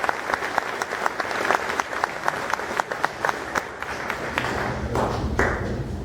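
Audience clapping and applauding an award, the claps thinning out after about four seconds while a low rumble comes in.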